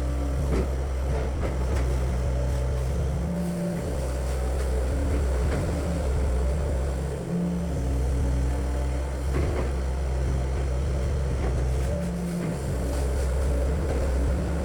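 Excavator engine running steadily, its note changing briefly three times, with a few short knocks.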